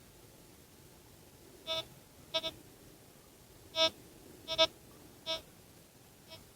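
Metal detector giving a series of short electronic beeps, some in quick pairs, while its ground balance setting is being adjusted.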